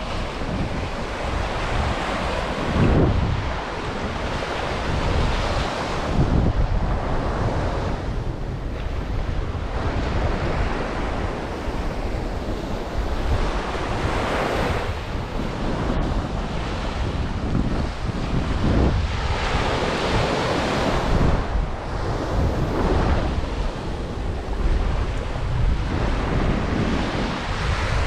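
Ocean surf washing onto a sandy beach, swelling and easing every few seconds, with wind buffeting the microphone as a low rumble.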